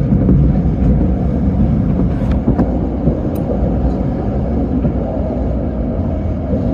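Electric commuter train running along the line, heard from inside the car: a steady low rumble of wheels on the rails, with a few faint sharp clicks about two to four seconds in.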